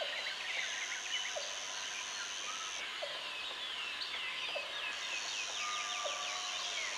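Jungle ambience: birds calling in fast runs of short, downward-sweeping notes over a steady bed of insects. A high insect buzz drones for about two seconds, stops, and starts again about five seconds in.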